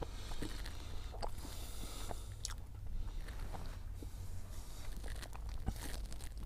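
A person biting and chewing a chocolate-glazed pastry tube filled with cottage cheese, with scattered short clicks from the shell, over a low steady hum.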